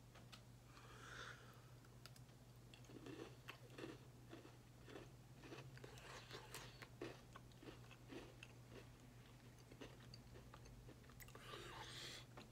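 Faint chewing of a Pepero white-cookie chocolate biscuit stick: a run of small, crisp crunches as the biscuit is bitten and chewed.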